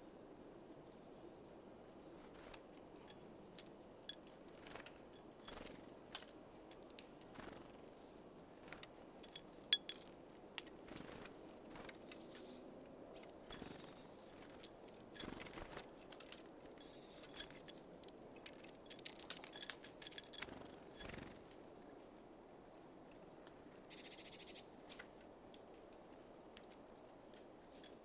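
Small birds at a feeder pecking and tapping at seeds: a scatter of faint, sharp clicks and taps, with a few brief high chirps, over a steady low background hiss.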